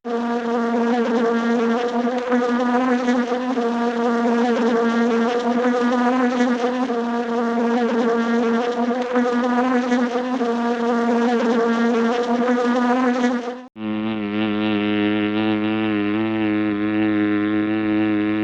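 Cartoon sound effect of a buzzing insect: a steady, wavering buzz held for about fourteen seconds that cuts off abruptly, followed by a lower, steady droning buzz.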